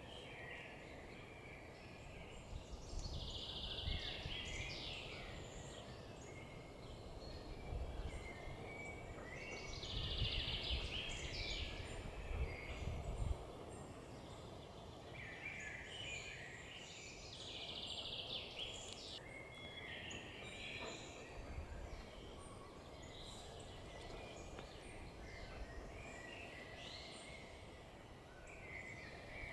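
Songbirds singing, short high warbled phrases coming every few seconds, over a steady outdoor background with a low rumble at times.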